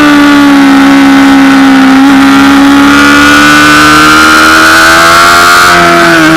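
Honda CBR600RR inline-four engine running hard at high revs, heard loud from a camera mounted on the bike. The pitch eases down at first, climbs slowly through the middle, and dips briefly near the end.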